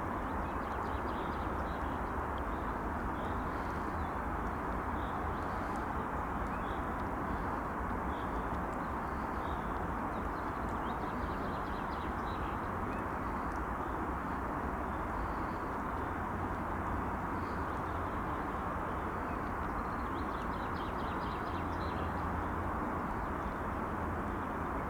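Steady outdoor background hiss with a low rumble, and birds chirping faintly now and then.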